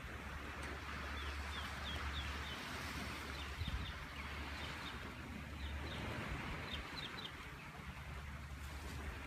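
Bird chirping: short, high, falling notes in quick runs of three or four, over a steady hiss and a low rumble.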